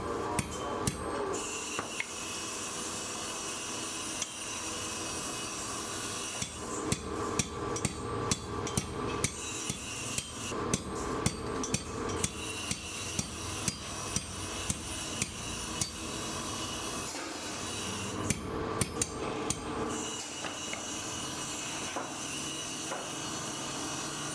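Hammer blows on metal in a spring-making workshop, about two a second through the middle of the stretch, over a steady machine hum.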